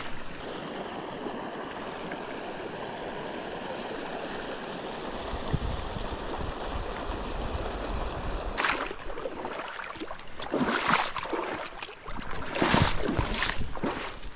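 Mountain stream running steadily. From about eight seconds in, several louder noisy surges break over it.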